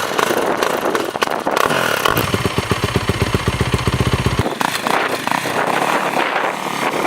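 Yamaha YZ250FX motocross bike's single-cylinder four-stroke engine running, loud and rough with clatter; for about two seconds in the middle its even low firing pulses stand out clearly.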